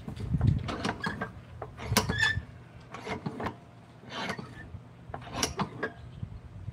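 Irregular scraping and tapping of hand tools working on wood, short strokes with a few brief squeaks.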